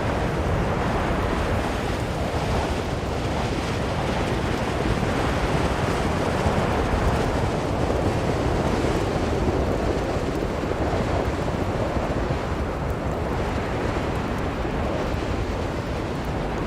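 Blizzard wind blowing steadily: a dense rushing noise with no distinct gusts, swelling slightly around the middle.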